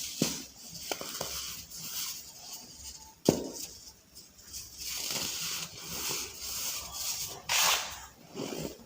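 Soft balls of baking soda being crushed and crumbled by hand, a run of crunchy, gritty crumbling sounds. A sharp crack comes about three seconds in, and a louder, longer crunch comes near the end.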